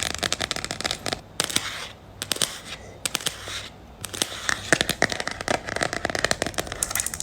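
Long manicured fingernails tapping rapidly on a hard object, a fast, dense patter of clicks that thins out and grows quieter for a couple of seconds in the middle before picking up again.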